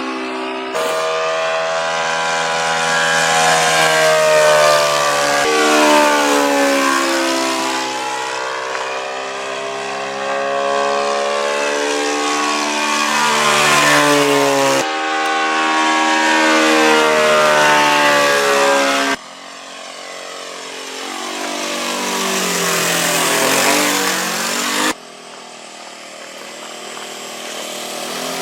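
Saito FG-36 single-cylinder four-stroke petrol engine of a radio-controlled scale model plane, turning an 18x8 propeller in flight. The engine note rises and falls in pitch as the plane passes by. The sound changes abruptly several times, twice dropping to a quieter, more distant pass.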